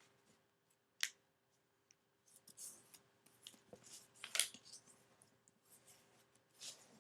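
A sheet of origami paper being folded and creased by hand: crisp paper crackles and rustles, with a sharp snap about a second in and the loudest crackle a little past the middle.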